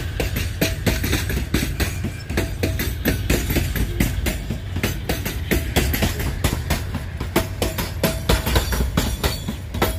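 Freight train of covered hopper cars rolling past close by: a steady low rumble with dense, irregular clatter and knocking of steel wheels and trucks on the rails.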